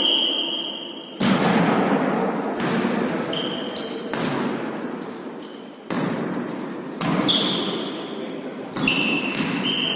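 Ball rallying in a volley tennis match in a hall: about six sharp thuds of the ball being struck and bouncing on the court, one to two seconds apart, each ringing on in the room, with short high squeaks of shoes on the court floor in between.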